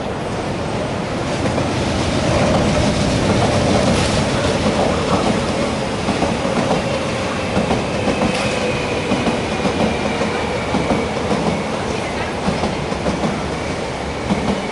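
East Rail line electric train passing close by: a steady rumble that swells about two seconds in, then wheels clattering over rail joints in a regular rhythm.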